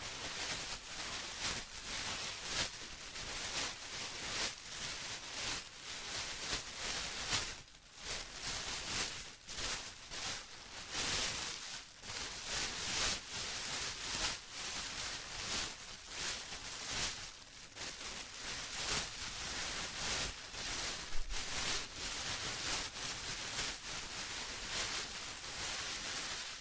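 Plastic being rustled and crinkled, a continuous crackle that swells and dips irregularly.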